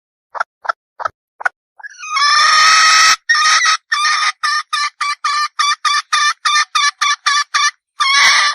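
Female red junglefowl (Gallus gallus) calling. A few short clucks, then a long loud squawk about two seconds in, then a rapid run of clucks at about three or four a second, ending in a longer call.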